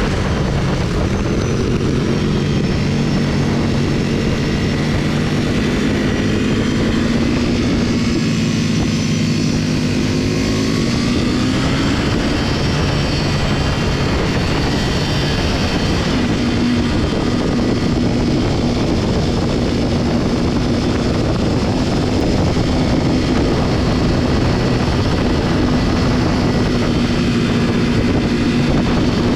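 Motorcycle engine running at road speed, its hum rising in pitch about ten seconds in and then holding steady, with steady wind noise over it.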